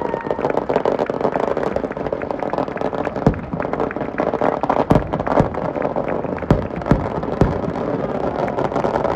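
A steady outdoor din of crowd and traffic noise, broken every second or so by sharp bangs like firecrackers.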